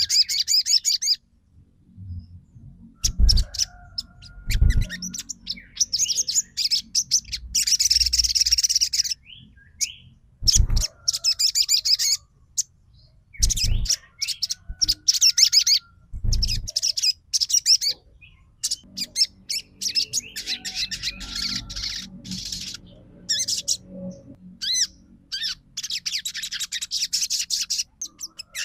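Sunbird (sogon) singing in bursts of rapid, high-pitched trilling chirps, each lasting one to a few seconds with short pauses between. A few dull low thumps fall among the song.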